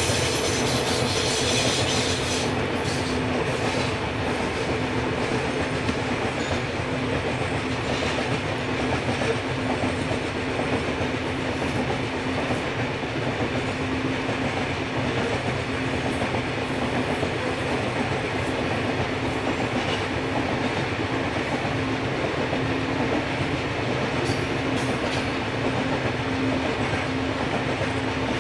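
Loaded coal hopper wagons of a heavy freight train rolling past, a steady rumble with wheel clatter. A high wheel squeal is heard in the first couple of seconds, then fades out.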